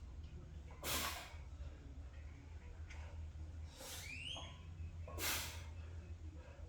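A man breathing hard and forcefully through a set of squats, with big audible breaths about a second in, about four seconds in and about five seconds in, and fainter breaths between them, over a steady low hum.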